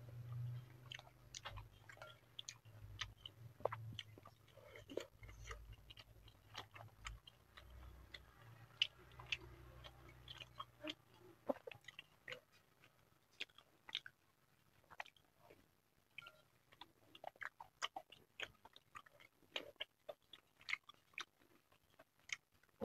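Close-up chewing of mini meatballs (bakso) with egg: irregular wet mouth clicks and smacks. A low hum underneath stops about halfway through.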